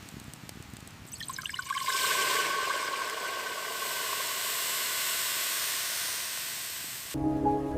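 A steady hissing rush of water or steam, building up through a quick run of crackles about a second in and cutting off abruptly near the end.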